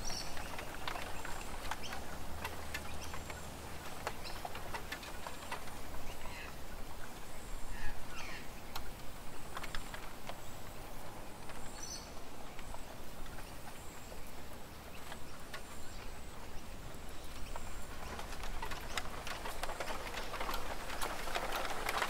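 A few short, scattered bird chirps over a steady run of light ticking and pattering, with a faint low hum underneath.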